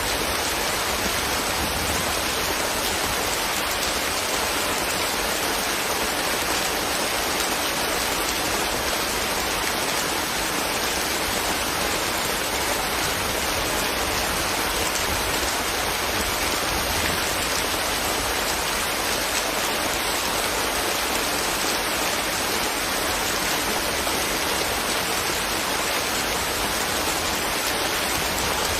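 Steady rain falling, an even hiss of raindrops without breaks or single loud events.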